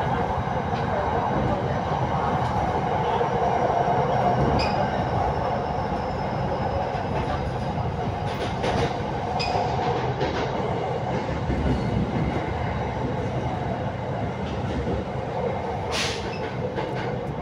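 Cabin noise of an SRT Red Line electric commuter train running along the line: a steady rumble of wheels and drive, with scattered light clicks and one sharp click near the end.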